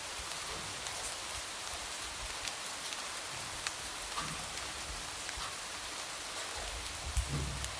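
Light rain falling steadily, with scattered single drops tapping against a window. A brief low rumble comes near the end.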